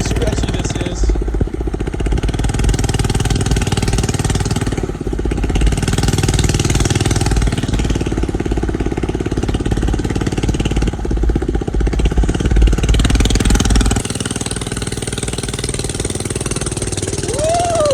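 A 1979 Thunderbird mini bike's small single-cylinder engine running while the bike is ridden, a fast, steady putter of firing strokes. A deep low rumble under it drops away about fourteen seconds in.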